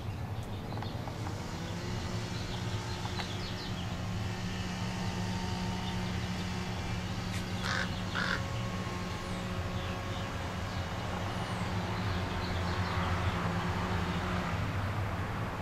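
Two short bird calls close together about eight seconds in, with faint scattered bird chirps, over a steady low hum.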